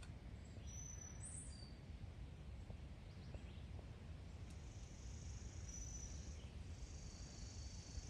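Faint outdoor ambience: a low steady rumble with a few short high bird chirps early on, then two longer high-pitched trills in the second half.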